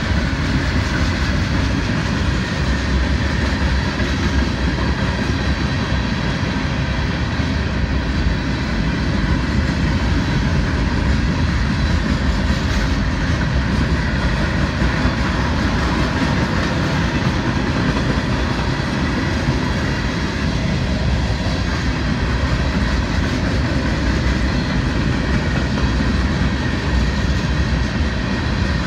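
Mixed freight cars of a Florida East Coast Railway train rolling past, a loud, steady rumble of steel wheels on the rails.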